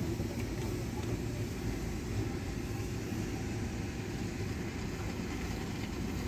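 Car engine running and the car creeping forward, heard from inside the cabin: a steady low rumble.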